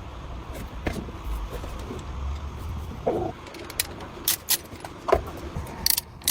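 Metal tools clinking and knocking during work on a truck, with sharp clicks coming faster toward the end, over a low steady rumble.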